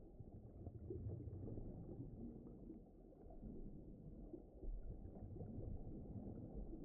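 Faint, low, muffled rumble of deep-ocean ambience, swelling and easing with no steady tone or beat.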